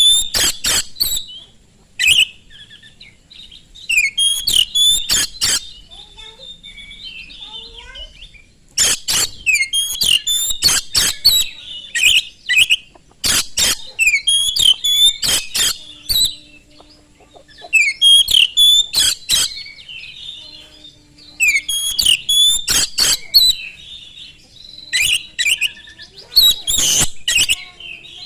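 Oriental magpie-robin singing: bursts of sharp, scratchy clicking notes mixed with whistles, in phrases of one to three seconds with short pauses between them.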